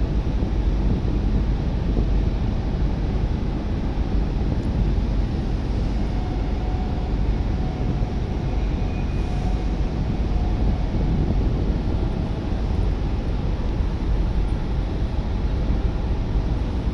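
Strong wind blowing on the microphone, a steady low rumbling buffet with no letup, as a rainstorm approaches.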